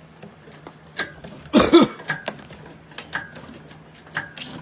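Metal lifting rigging of an engine hoist clicking and clanking irregularly under the weight of a 1941 Chrysler Windsor engine being lifted out, with one louder, longer creak about a second and a half in.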